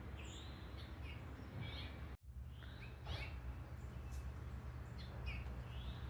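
Small birds chirping: a string of short, rising chirps over a steady low background rumble. The sound cuts out for an instant about two seconds in.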